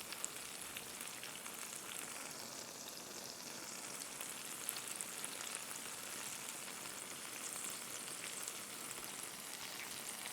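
Salmon fillets sizzling in oil in a cast iron skillet: a steady frying hiss with fine crackles and pops.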